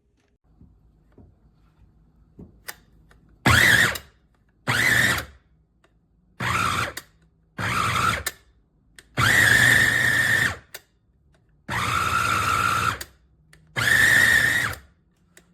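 JOYAMI electric food processor motor pulsed in seven short bursts, each spinning up to a steady whine and cutting off, with pauses of about a second between them.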